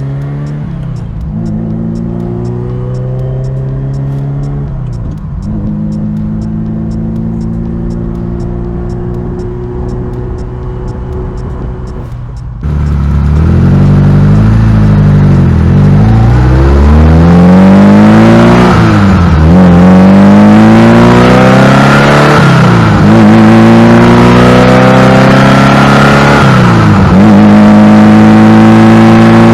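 Ferrari 308's mid-mounted V8, heard at close range from the engine cover, pulling through the gears. The pitch climbs and then drops at each upshift. About halfway the engine gets much louder and harsher, with quicker climbs and a shift drop every three or four seconds under harder acceleration.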